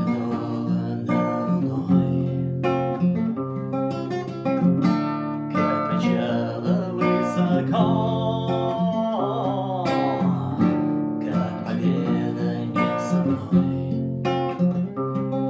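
Acoustic guitar being strummed, chords in a steady rhythm with the notes ringing on between strokes.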